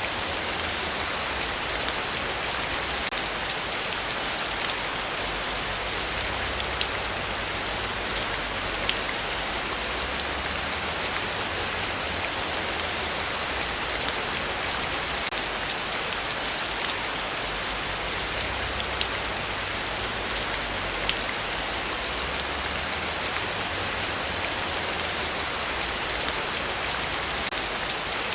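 Heavy rain falling steadily, a dense even hiss with individual drops pattering and ticking throughout.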